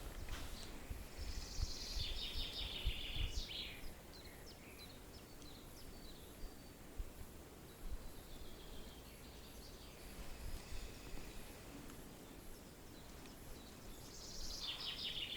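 Small birds singing in short, high trills, twice, over a low steady rumble of wind.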